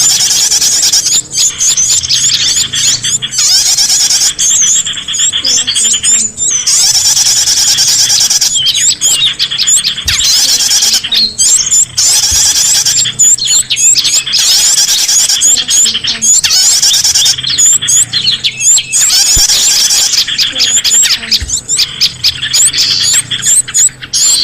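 Bird-luring call recording: dense, overlapping chirps and rapid trills of small songbirds, loud and continuous with brief breaks every second or two.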